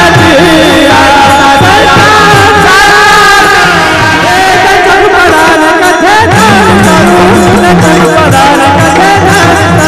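Varkari kirtan singing: a solo voice holding long, ornamented melodic notes over a repeating low accompaniment.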